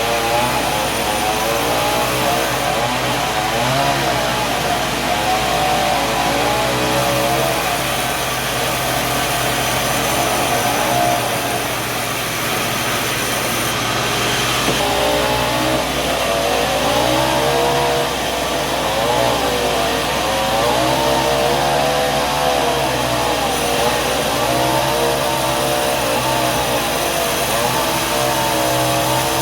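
Sawmill machinery running under load, its pitch wavering up and down every second or two over a steady low hum.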